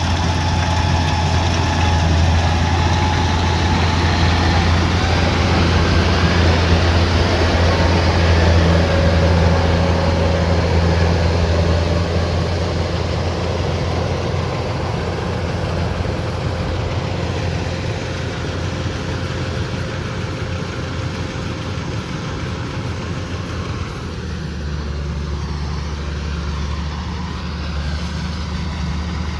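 Kubota DC-105X combine harvester's diesel engine running steadily with a deep hum, a little quieter from about halfway through, its low note dropping slightly near the end.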